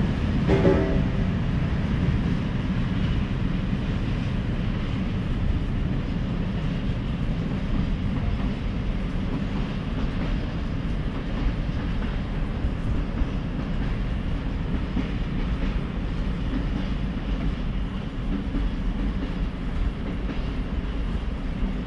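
Freight train of open coal wagons rolling away along the track: a steady low rumble with wheel clatter, easing slowly as it recedes. A brief squeal comes about half a second in.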